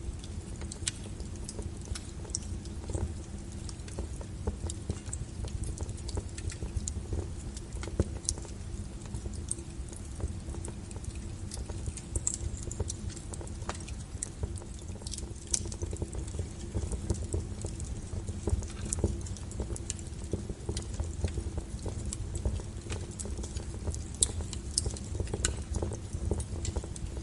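Wood fire burning in a fireplace: logs crackling and popping at irregular intervals over a low, steady rumble.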